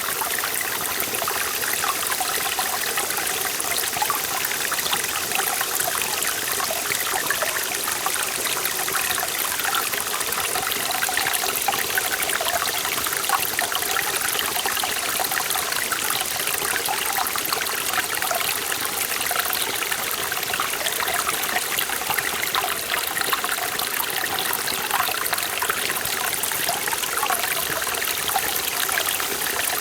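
Mountain valley stream flowing steadily over rocks, a bright rushing and trickling with small gurgles.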